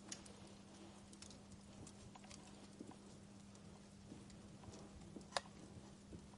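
Wood fire crackling: sparse, sharp pops and snaps at irregular intervals, one louder pop about five seconds in, over a faint steady low hum.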